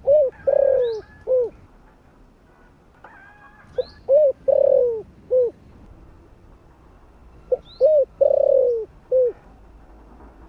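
Spotted dove (cu gáy) cooing: three matching phrases about four seconds apart. Each is a short note, a longer drawn-out coo and a short closing note.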